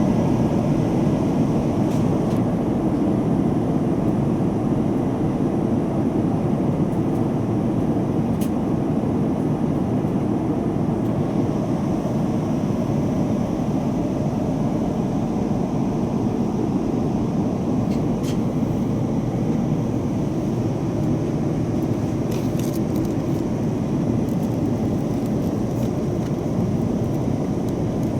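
Jet airliner cabin noise: a steady, deep rushing hum heard from inside the cabin, with a few faint ticks.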